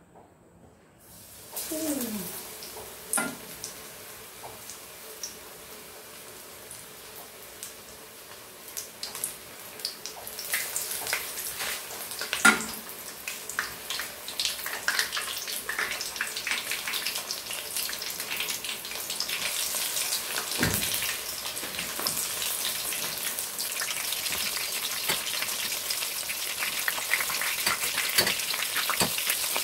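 Flour-and-breadcrumb-coated fish sizzling as it deep-fries in hot oil in a wok. The sizzle starts about a second and a half in and grows louder and denser as the fish cooks, with scattered pops and crackles and a single dull knock about two-thirds of the way through.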